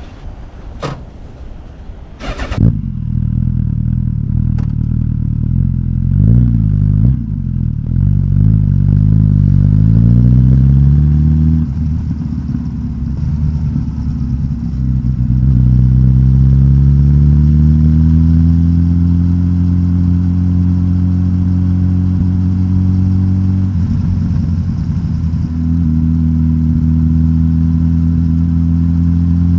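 Suzuki GSX-S1000GT's K5-derived inline-four engine, breathing through a de-catted stock exhaust, starting up after two sharp clicks about 2.5 s in. The engine speed wavers and climbs for several seconds, drops back, steps up again and then holds a steady idle.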